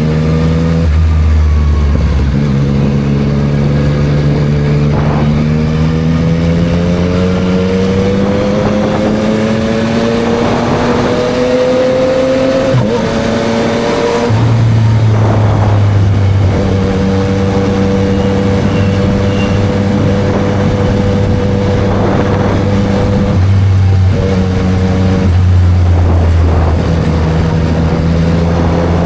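Yamaha MT-09 SP's 890 cc inline-triple engine through a Spark full aftermarket exhaust, heard from the rider's seat under way. The pitch climbs slowly through a long pull, drops sharply at a gear change a little before halfway, then holds steady while cruising, with further changes in engine speed near the end.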